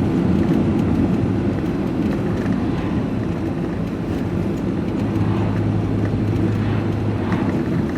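Steady engine and road noise inside a moving vehicle's cab. A low engine hum holds steady for a few seconds past the middle.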